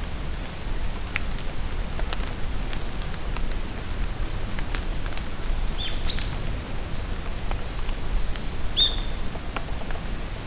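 Rain falling in a forest, with steady patter and scattered sharp drips, while birds give a few short calls: a quick upward-sweeping note about six seconds in, and a chattering trill followed by another call near the end.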